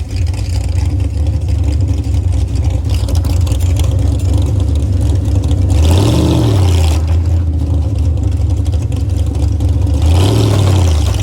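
Monster truck engine running loudly at a steady low speed. It is revved up and back down briefly about six seconds in, and again near the end.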